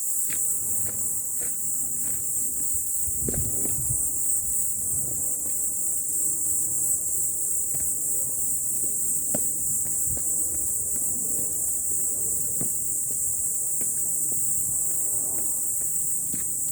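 A steady high-pitched chorus of insects, with irregular soft footsteps or thumps about every half second.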